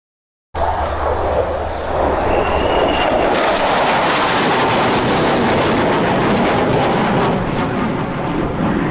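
Fighter jet engine noise, loud and steady, starting abruptly about half a second in.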